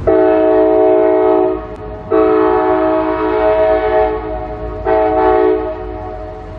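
CSX diesel locomotive's multi-chime air horn sounding three blasts, two long and one short.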